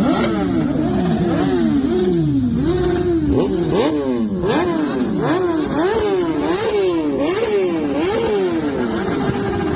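Sport motorcycle engine revving in quick, repeated throttle blips. Each time the pitch jumps up sharply and falls back, and near the end it levels off into a steadier tone.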